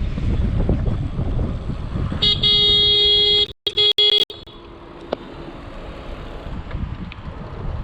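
Wind buffeting the microphone, then a horn sounds one loud, steady note about two seconds in for over a second. The note breaks into a few short choppy blasts before stopping, leaving quieter wind and road noise.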